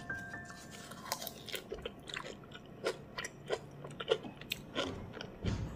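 A person chewing food: a string of irregular, crisp clicks and crunches, about a dozen of them over several seconds.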